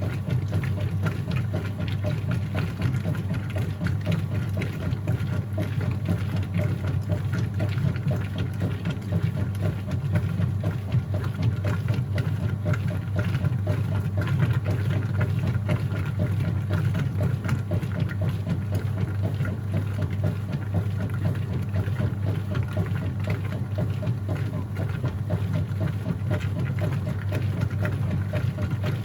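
Whirlpool top-load washing machine running mid-cycle: a steady low motor hum with water churning in the tub, unbroken throughout.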